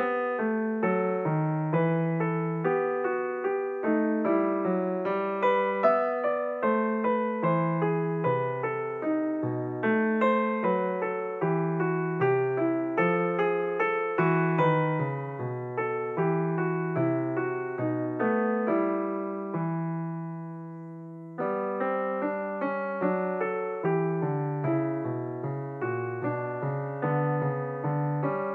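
Solo piano music: a flowing line of struck notes over low bass notes. About twenty seconds in, a chord is held and fades away before the playing picks up again.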